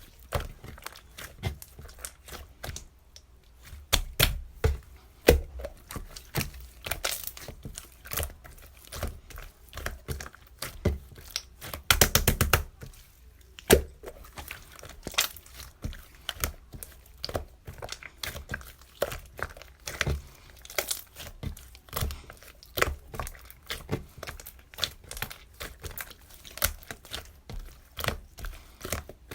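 Irregular crinkling and crackling handling sounds with scattered sharp taps, and a quick rattle of clicks about twelve seconds in.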